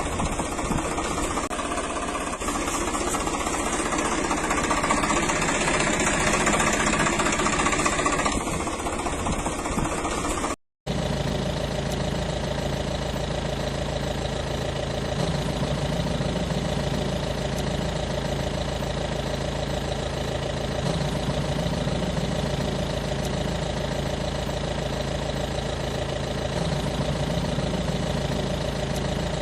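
Vehicle engine running steadily at idle. A short break about a third of the way in is an edit cut, and after it the engine runs with a smoother, even hum.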